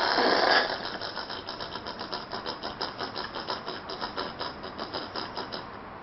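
An animal call: a harsh burst, then a rapid, even chattering of about six pulses a second that stops shortly before the end.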